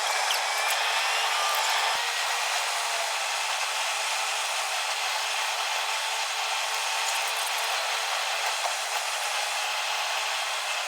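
Steady road and wind noise inside a car cabin at highway speed, with a faint whine gliding in pitch and one brief knock about two seconds in.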